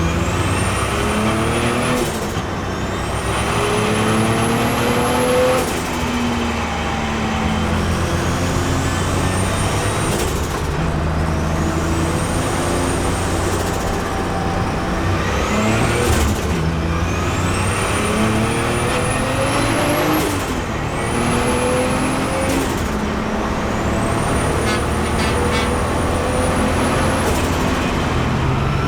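BMW M3 with a swapped turbocharged Toyota 2JZ straight-six accelerating hard through the gears. The engine note and a high turbo whistle rise together with the revs, then drop at each gear change with a short hiss of released boost. This repeats several times.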